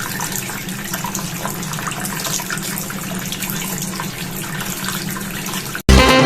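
Hot-water tap running steadily into a sink, a constant rush of water. It cuts off abruptly near the end, giving way to music.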